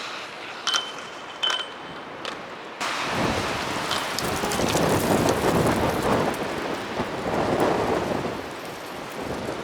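Strong wind buffeting the camera microphone in gusts, a loud rushing noise that starts abruptly about three seconds in and surges and eases. Before it, a few sharp clicks.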